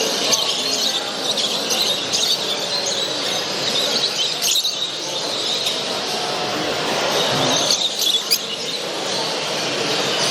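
A hall full of caged show birds, small parrots among them, calling all at once: a dense, continuous mass of high chirps and squeals over the low murmur of a crowd.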